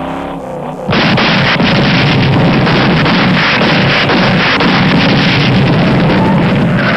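Sound-effect barrage of artillery-like gunfire and explosions, a dense crackling rumble that cuts in abruptly about a second in and holds steady, after a brief rising tone.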